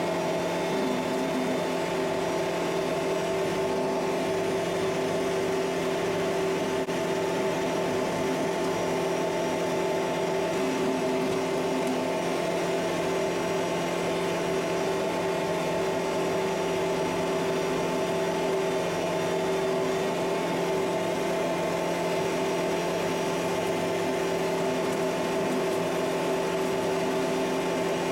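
Kubota MX5800 tractor's diesel engine running at a steady speed while driving a Land Pride rotary brush cutter. It makes an even, constant-pitch hum with no revving or load changes.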